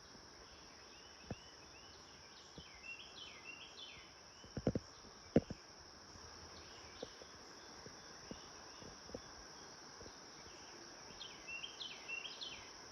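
Outdoor wildlife ambience: insects trill in a steady high-pitched drone, while a bird gives two rapid series of chirps, one early and one near the end. A few sharp clicks or knocks sound about five seconds in.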